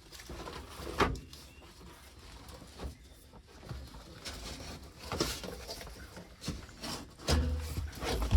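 Scattered knocks and clunks of hands working on an old truck, with a louder thump and low rumble near the end.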